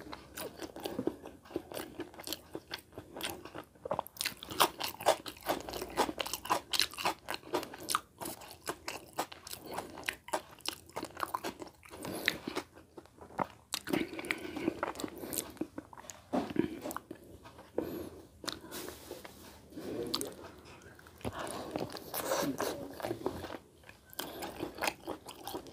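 A man chewing a mouthful of rice and chicken curry eaten by hand, with a steady run of short, sharp mouth clicks, several a second.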